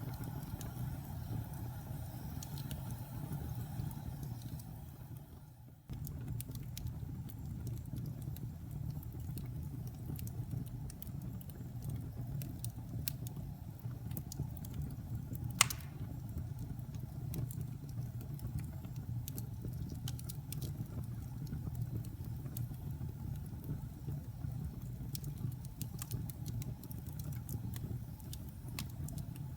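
Wood fire burning in a fireplace: a steady low rumble of flames with scattered small crackles and one sharp pop about halfway through. The sound briefly fades out and comes back about six seconds in.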